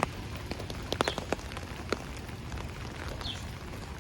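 Steady rain falling, with scattered drops ticking sharply close by, several of them around a second in.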